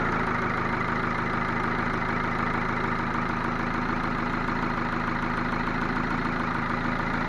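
Ford Focus II 1.6-litre 100 hp four-cylinder petrol engine idling steadily with a knock. The engine was rebuilt with the block bored to +0.5 mm oversize, new pistons and new bearings, and it still knocks.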